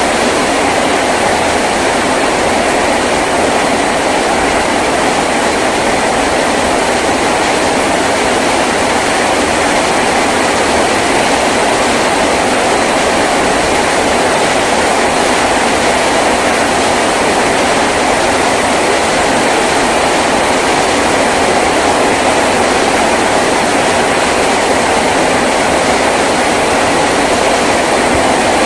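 Heavy rain drumming steadily on a tin roof, a dense, even roar with no breaks.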